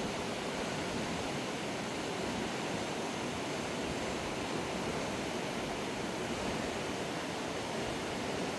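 Fast-flowing river rushing steadily, a continuous even roar of water.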